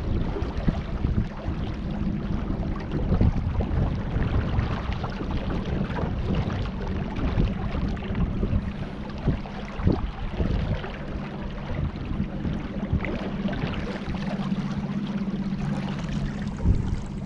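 Kayak on the river: water splashing and lapping around the hull with wind on the microphone, over a steady low hum and scattered light knocks.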